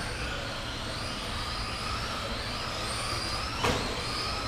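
Several radio-controlled racing trucks running on a track, their electric motors whining and rising and falling in pitch as they speed up and slow down. A single sharp knock comes a little past halfway through.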